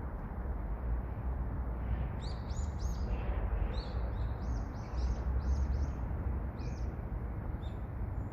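A small songbird calling a quick series of about ten high, arched chirps, starting about two seconds in and stopping near the end. A steady low rumble runs underneath.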